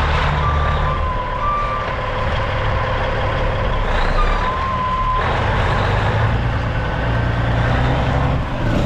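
Peterbilt 379 dump truck's diesel engine running with a steady rumble while its backup alarm beeps about once a second, the beeps stopping about two seconds in; the engine noise grows louder and fuller from about five seconds in.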